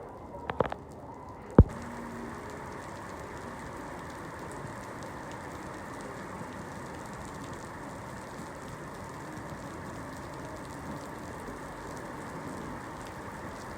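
Steady rain falling, an even hiss. A few sharp clicks come just after the start, and one loud sharp knock about a second and a half in.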